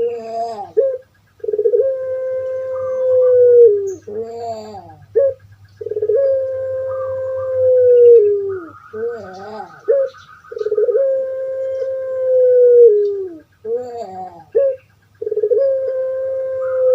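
Puter pelung (Barbary dove) cooing: four long drawn-out coos, each a held note that falls away at the end and follows a few short, quickly bending notes. A faint low hum runs underneath.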